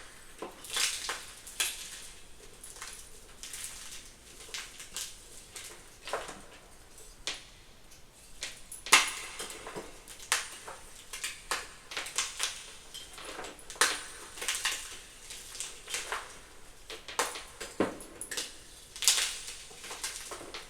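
Chunks of gym chalk being crunched and crushed by hand: irregular crisp crunches and crackles, with the sharpest snaps about nine seconds in and near the end.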